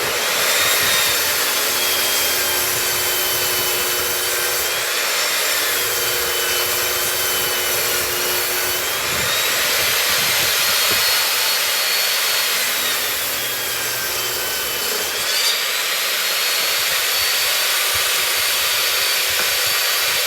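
SKIL table saw running and ripping a board, the motor's whine sagging and recovering in pitch several times as the blade takes the load. The kerf is spread with a scratch awl so the board no longer pinches the blade.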